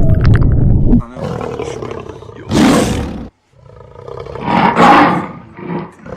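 Large animal roaring: a loud low rumble in the first second, then two loud roars, one about two and a half seconds in and one near five seconds.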